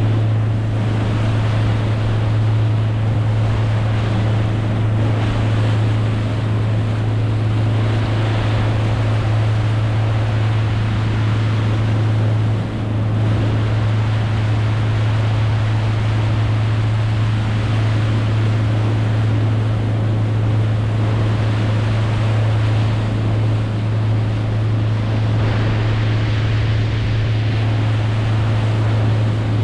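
A boat motor running steadily under way, a constant low drone over rushing water and wind noise.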